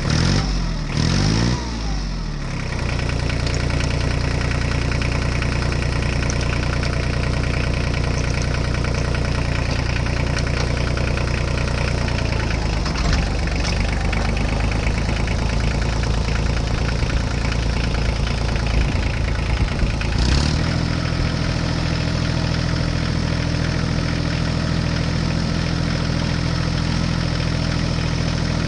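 Tractor engine sound, running steadily. In the first couple of seconds the pitch glides up and down, there is a shift around twelve to thirteen seconds in, and about twenty seconds in it steps to a different steady note.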